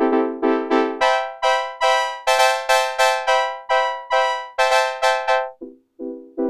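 Korg Polysix analog synthesizer playing a brass patch: short repeated chords, about four a second, each starting bright and then fading. About a second in the part jumps up in pitch, and it drops back down after a brief gap near the end.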